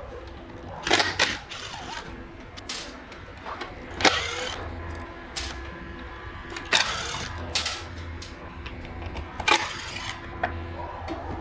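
Irregular knocks, clatters and short scrapes over a steady low hum, typical of tools and parts being handled on a workbench; the loudest knock comes about four seconds in.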